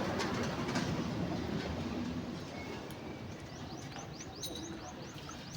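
Outdoor background noise with a bird giving a quick run of short, high, rising chirps, about five a second, through the second half.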